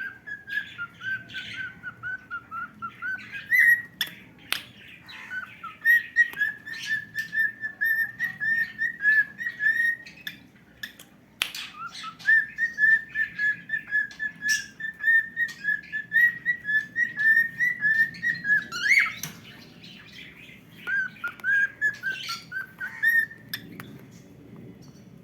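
Cockatiel singing: long runs of quick, repeated whistled notes held around one pitch, with a break about halfway and a few sharp clicks; the song stops near the end.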